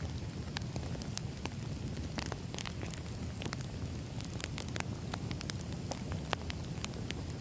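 Crackling wood fire: a steady low rumble of burning logs with irregular sharp pops and crackles scattered throughout.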